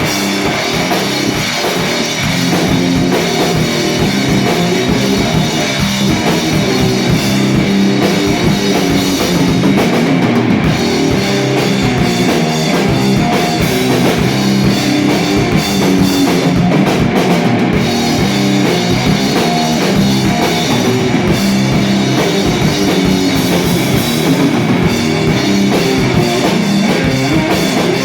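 Rock band playing live: drum kit and guitars, loud and continuous.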